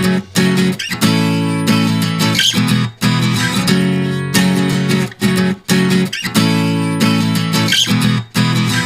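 Background music led by a strummed acoustic guitar, playing chords with brief breaks between them.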